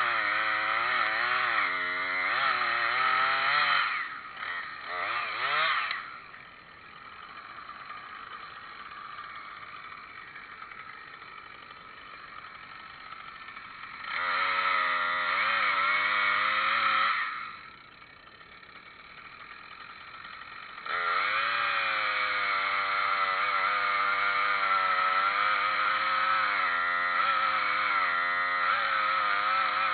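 Gasoline chainsaw running at high revs with a wavering pitch, dropping away twice, about four seconds in and again near seventeen seconds, before revving back up and holding steady.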